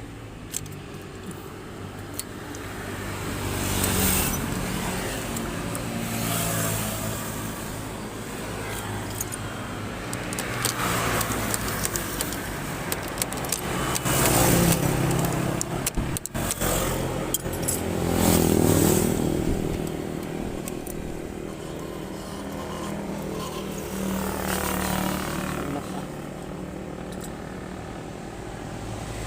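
Road vehicle noise: engines running steadily, with several swells as traffic passes and scattered metallic clinks and jangles.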